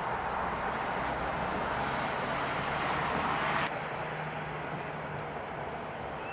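Electric-hauled passenger train rolling past, a steady rushing of wheels on the rails that swells and then cuts off abruptly about three and a half seconds in, replaced by a quieter, steady background rumble with a faint low hum.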